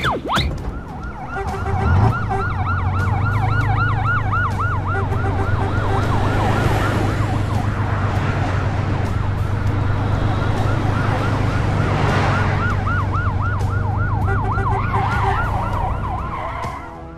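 Fast yelp siren of a fire engine, its pitch sweeping up and down several times a second and breaking off for a few seconds midway, over a steady low engine drone that starts about two seconds in.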